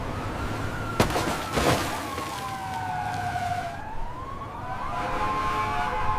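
Emergency vehicle siren wailing, its pitch sliding slowly down and then back up. A sharp knock comes about a second in.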